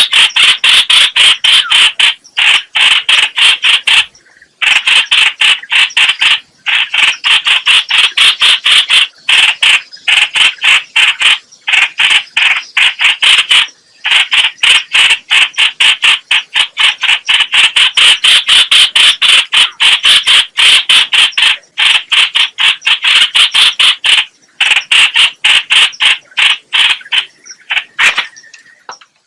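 The bird known in Vietnam as trao trảo (chao chảo, hoành hoạch) calling loudly, a rapid chattering of sharp notes at about four a second in long runs broken by brief pauses, used as a lure call for trapping.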